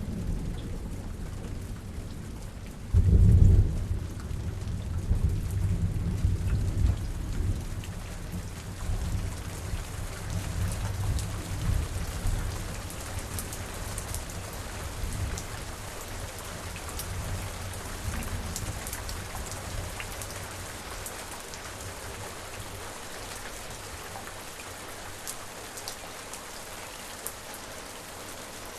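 Steady rain falling on surfaces, with a crack of thunder about three seconds in that rolls on as a low rumble and fades away, leaving the rain alone.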